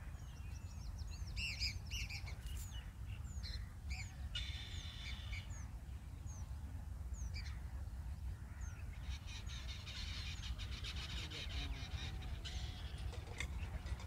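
Small birds calling: a run of short, high, falling chirps, then buzzy rasping calls lasting a second or two, about four seconds in and again from about nine to twelve seconds, over a steady low rumble.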